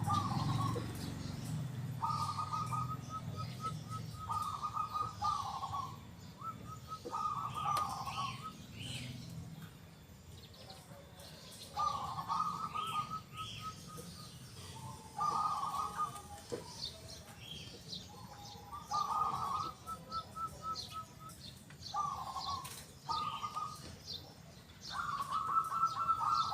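Zebra dove (perkutut) cooing its song in repeated phrases, each one to two seconds of rapid trilled coos with short pauses between. Smaller birds chirp higher in the background.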